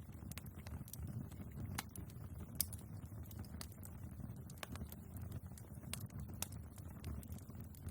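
Wood fire burning in a fireplace: a steady low rumble of flames with irregular sharp crackles and pops from the logs, the loudest pop about two and a half seconds in.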